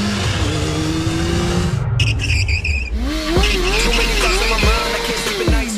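A vehicle engine running and rising in pitch as it accelerates, cut off abruptly about two seconds in. A wavering, whining tone follows, bending up and down, and glides down near the end.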